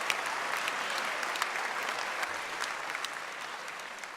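Audience applauding, a dense wash of many hands clapping that slowly fades.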